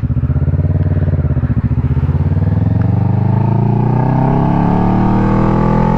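Kawasaki Ninja 650's parallel-twin engine running under way, its pitch dipping slightly and then rising steadily as the motorcycle accelerates.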